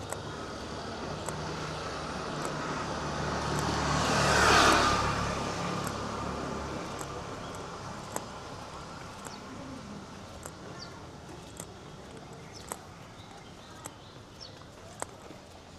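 A motor vehicle passing close by, its engine and tyre noise swelling to a peak about four and a half seconds in and then fading away. Footsteps tick at an even walking pace throughout.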